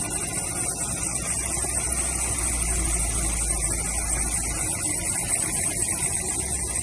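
Opel Zafira B's 1.6-litre Z16XEP four-cylinder petrol engine idling steadily.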